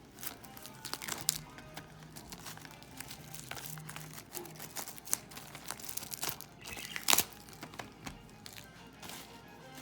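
Plastic wrapping crinkling and tearing as a trading-card hobby box is unwrapped by hand, with scattered crackles and one sharp snap about seven seconds in. Faint music underneath.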